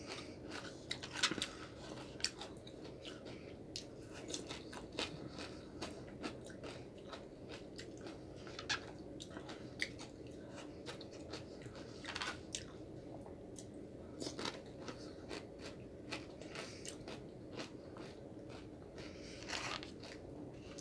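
A person chewing food close to the microphone: irregular wet mouth clicks and smacks, with a few louder ones scattered through.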